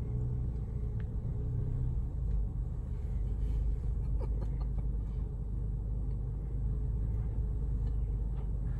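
Car engine running at idle, heard from inside the cabin as a steady low hum.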